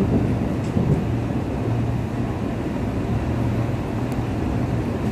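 Running noise of an MTR East Rail line SP1900 electric multiple unit (Kinki Sharyo–Kawasaki) heard from inside the passenger car while the train travels at speed: a steady low rumble and hum from the running gear and motors.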